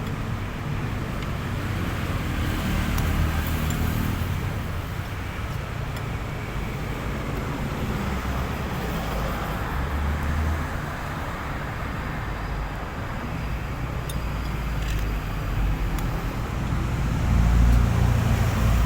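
Road traffic going by: a steady low rumble of passing vehicles that swells louder near the end.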